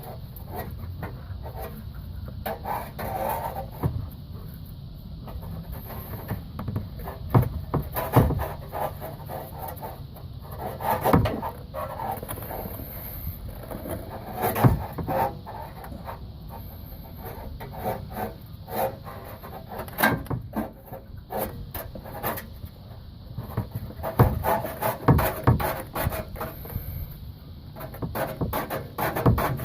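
Irregular knocks, clanks and rubbing from hand work on a car's exhaust, as the muffler is worked back onto its hangers.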